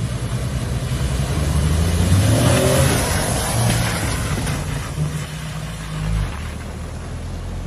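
A motor vehicle's engine running, with a broad rush of noise that grows to its loudest about two to three seconds in and then eases, as a vehicle passing close by would sound.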